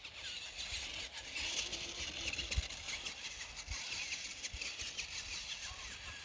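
Remote-control Grave Digger monster truck driving over rough ground, its small electric motor whirring steadily, with low irregular thumps underneath.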